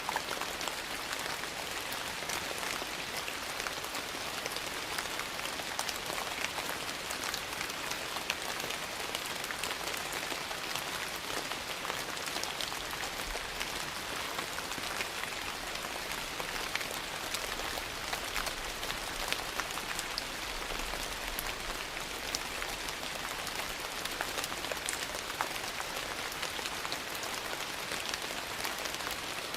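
Steady rain falling, an even hiss, with many small sharp ticks of drops scattered through it.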